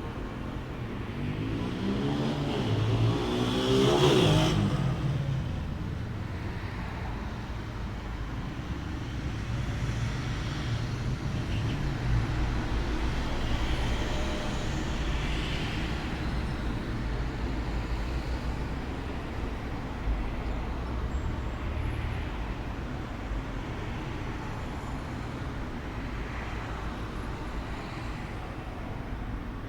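A motor vehicle's engine rising in pitch as it accelerates past, loudest about four seconds in, followed by a steady low traffic rumble with fainter passing swells.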